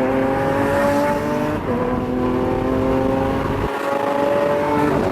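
Sports car engine accelerating hard through the gears, its pitch climbing steadily and dropping at an upshift about a second and a half in and again near the end.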